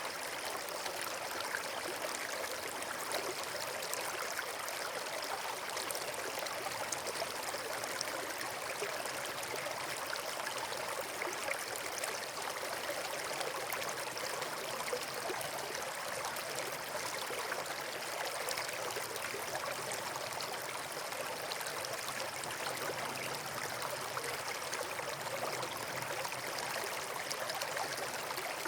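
Steady rushing of running water, a stream or small waterfall, unchanging throughout with no separate pops or crackles.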